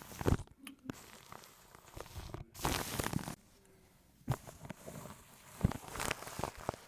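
Close-miked ASMR wet mouth sounds: irregular lip and tongue clicks and smacks, with a few short bursts of scratching noise on the microphone. There is a short pause near the middle.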